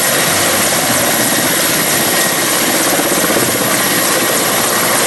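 Helicopter sound: steady rotor chop over engine noise, without a break.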